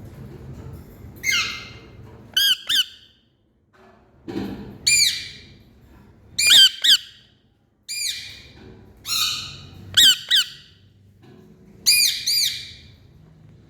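Indian ringneck parrot calling: loud, shrill squawks in groups every second or two, harsh screeches mixed with short sharp notes that often come in pairs.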